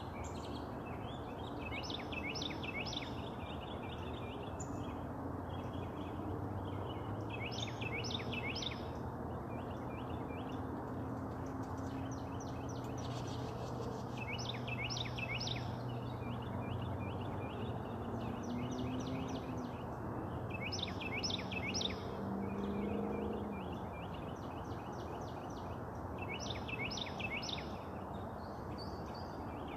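Songbirds singing: one bird repeats a short, sharp phrase of three or four notes about every six seconds, with quieter rapid chirping between. Beneath it runs a steady low rumble of background noise.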